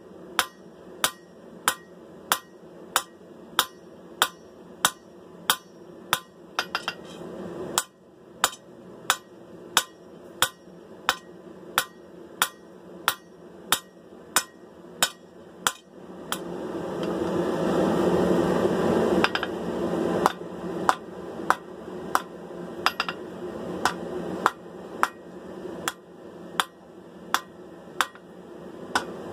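Hammer blows on a hot steel sword blade against an anvil, drawing out and thinning the tip: steady ringing strikes about two a second, with one short pause about eight seconds in. A steady rushing noise runs underneath and swells for a few seconds in the middle.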